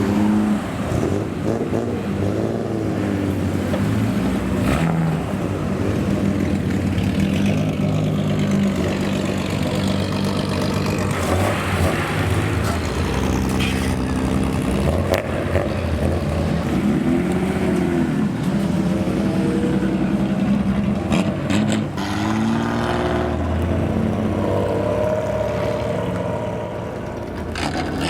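Modified cars' engines running loud through their exhausts, revved again and again in short blips that rise and fall in pitch over a steady rumble.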